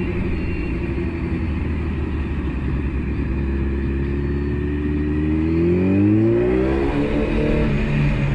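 Motorcycle engine running at a steady pitch, then revving up about two-thirds of the way through and dropping back near the end.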